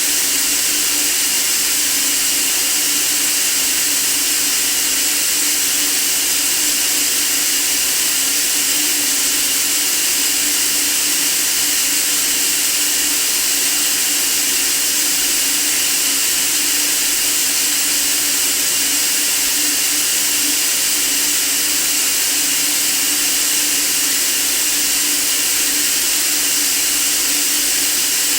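Continuous white noise: a loud, unchanging hiss, brightest in the high range, with a faint steady hum low down.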